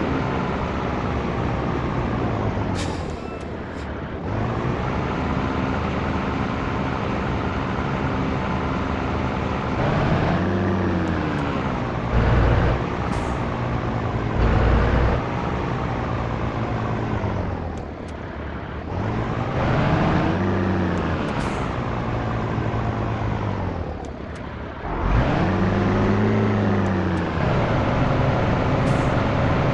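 Scania T113 truck's six-cylinder diesel engine pulling under load, working through gear changes: the engine note drops off about 3, 18 and 24 seconds in, then climbs again. Short air hisses come every several seconds, and there are two heavy low thuds in the middle.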